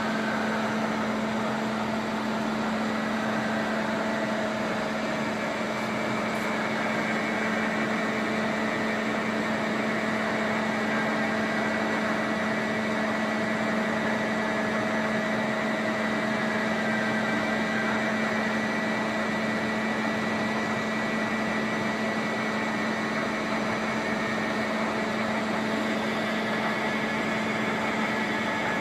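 Caser gantry milling machine running: a steady mechanical hum from its spindle and drives, with a few constant pitched tones and no change in pace.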